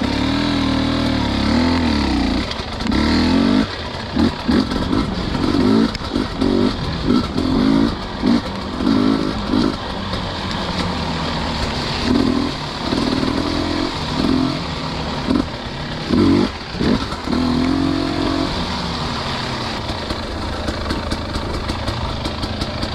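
Dirt bike engines running on a muddy trail, the throttle blipped on and off in short bursts so the revs rise and fall unevenly.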